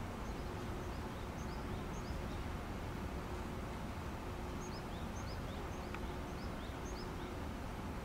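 A small bird giving short, rising chirps over and over, in loose runs, over a steady low rumbling background noise.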